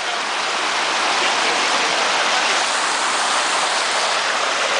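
Fast-flowing river water rushing over rocks, a steady loud rush.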